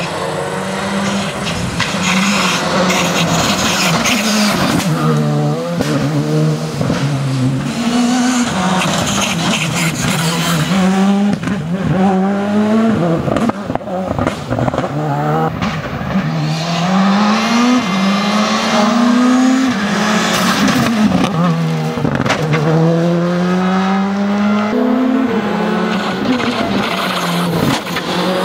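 Rally car engine driven hard, its pitch repeatedly climbing and dropping back as the gears change.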